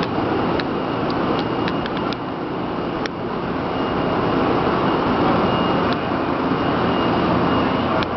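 0 Series Shinkansen train pulling in alongside the platform: a steady running rumble with a faint high thin tone, and a few sharp clicks about half a second to two seconds in.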